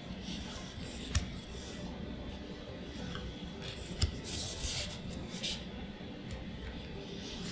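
Magic: The Gathering booster packs and cards being handled: a crinkly rustle of foil wrapper and sliding cards. Two sharp clicks come about a second in and about four seconds in.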